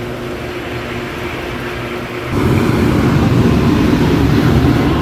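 Steady vehicle-like running noise with a faint hum, becoming louder and rougher about two seconds in.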